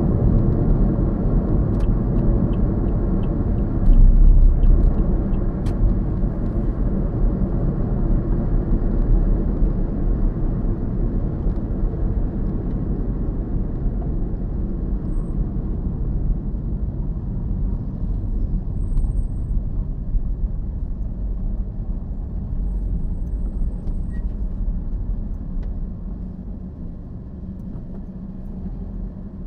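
Steady low rumble of a car driving, road and engine noise, swelling briefly about four seconds in and fading gradually toward the end.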